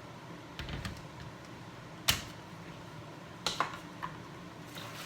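Clicks and knocks of the plastic Instant Ace Nova blender pitcher being handled: a couple of light clicks, one sharp knock about two seconds in, then a quick cluster of clicks a little later.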